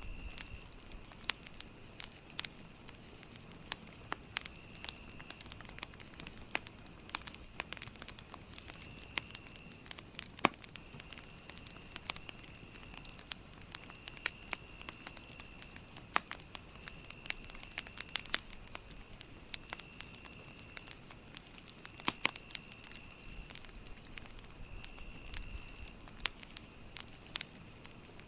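Campfire crackling, with sharp irregular pops, over a backdrop of insects chirping: one in a steady even pulse of about two to three chirps a second, with a steady high drone and a second, intermittent trill of about a second at a time.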